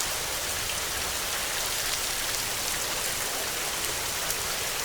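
Heavy rain falling steadily: an even hiss of dense drops, with fine individual drop ticks scattered through it.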